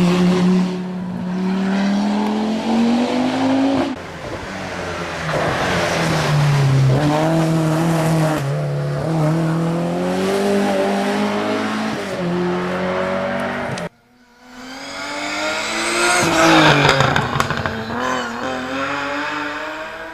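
Historic rally car engines revving hard at full throttle, their pitch climbing and dropping through gear changes. The sound changes abruptly about 4 s and 14 s in as one car gives way to the next, and after the second change the engine rises steeply to its loudest.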